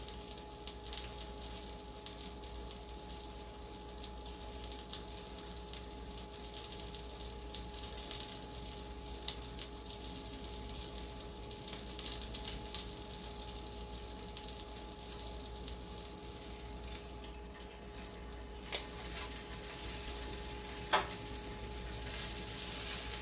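Halved mild Italian sausage sizzling and crackling in a frying pan, with a steady hum underneath. There are a few sharp clicks, the loudest near the end.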